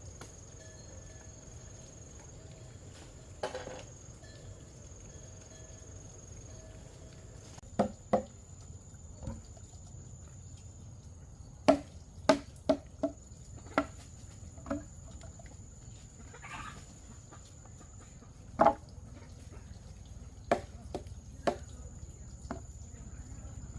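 A steady high-pitched insect drone, like crickets, with about a dozen scattered sharp knocks and clicks from handling or tapping things, loudest around the middle and once more near the end.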